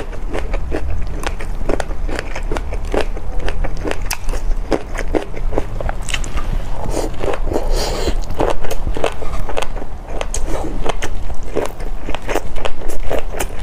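A person chewing crunchy food close to the microphone: rapid crisp crunches and crackles, several a second, with wetter chewing mixed in.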